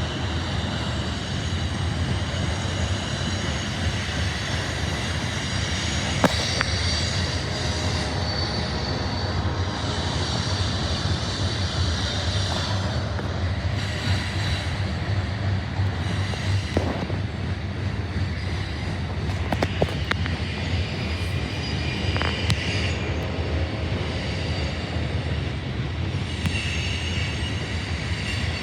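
Loaded coal train's freight cars rolling past, a steady rumble with scattered clicks from the wheels. High wheel squeal comes and goes several times.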